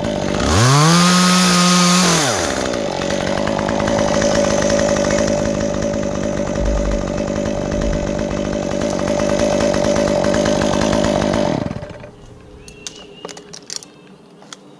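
Stihl two-stroke chainsaw revving briefly to full throttle, then running loud and steady for about ten seconds before it drops away sharply near the end.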